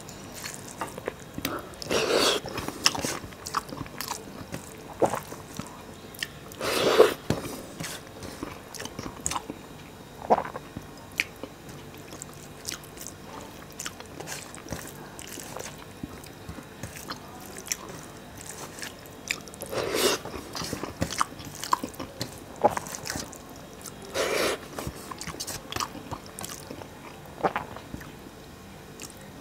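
Close-miked mouth sounds of a man chewing soft rice and fish-and-potato curry eaten by hand, with many small clicks of the mouth and a handful of louder smacking bursts spread through.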